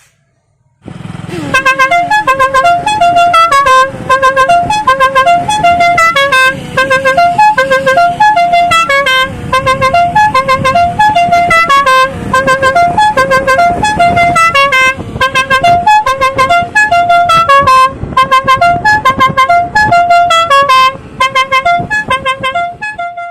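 Five-pipe musical air horn with an electric compressor, fitted to a motorcycle, playing a tune: a long run of short notes in quick succession, starting about a second in, over a low rumble.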